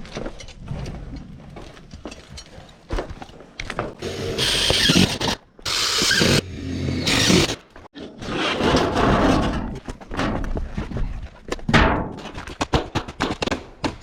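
Building work on a house frame: scraping and knocking, with two loud bursts of rushing noise about four and six seconds in and a run of quick knocks near the end.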